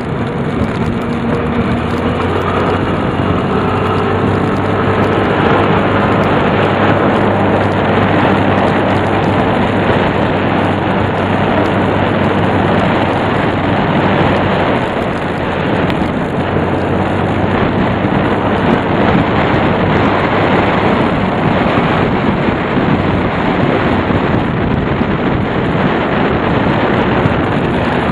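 Tsurugi 150's engine running under way, its pitch climbing over the first few seconds and then holding steady, half buried in heavy wind noise on the microphone.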